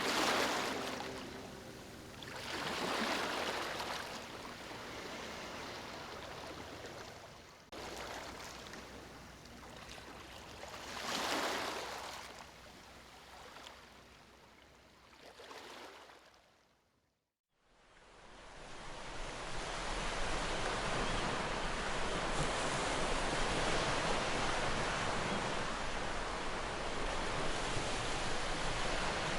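Sea waves washing in, each surge swelling and fading every few seconds. After a brief drop-out about two-thirds of the way through, a steady, continuous rush of surf takes over.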